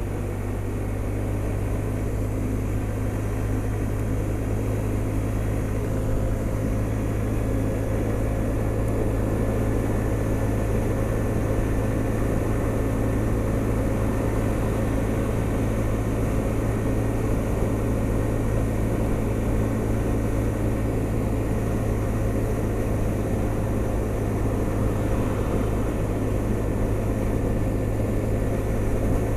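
Honda SH 300i scooter's single-cylinder engine running at a steady cruise, a continuous drone under wind and road noise, growing slightly louder over the first several seconds.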